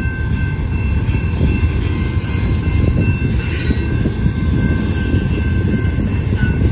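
Double-stack intermodal container cars of a freight train rolling past, a steady low rumble of wheels on rail, with faint steady high-pitched tones over it.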